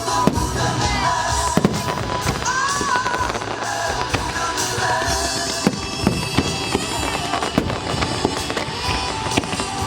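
Fireworks going off in quick succession, many sharp bangs one after another, with music playing underneath.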